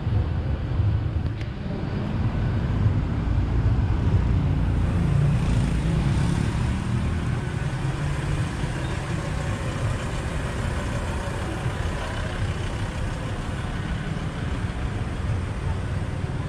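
Steady road noise from a motorbike ride: a low rumble of engine and wind with traffic around it.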